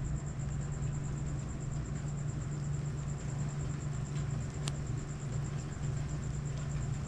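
Steady outdoor storm-night ambience: a constant low hum under a light noise haze, with a fast, even, high-pitched pulsing throughout and one sharp click about two-thirds of the way through. No thunder is heard.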